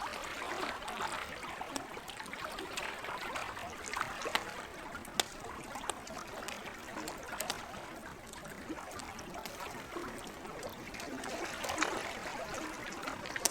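Lake water lapping and trickling steadily, with a wood campfire crackling over it and a few sharper pops.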